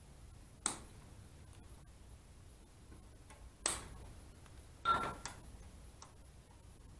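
Three sharp clanks of metal handled or set down, about three seconds and then a second apart, the last one ringing briefly.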